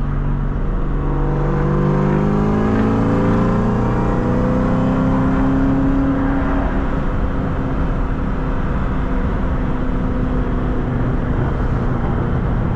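The supercharged 4.6-litre V8 of a 2003 Mustang Cobra accelerating, its pitch climbing over the first several seconds, then holding steady as the car cruises.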